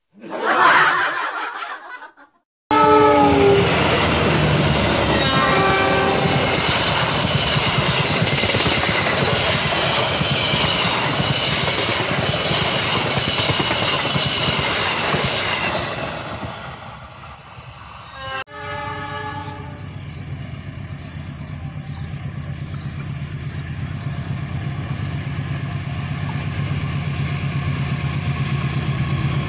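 After a brief burst of sound, a passenger train passes close by, its coaches rumbling loudly on the rails, with horn blasts in the first few seconds. Its noise fades, and after a sudden change a diesel locomotive sounds its horn and approaches, its engine and wheels growing steadily louder.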